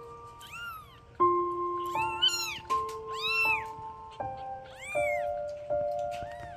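Six-day-old kittens mewing: about five short, high-pitched cries, each rising and falling, over soft piano music.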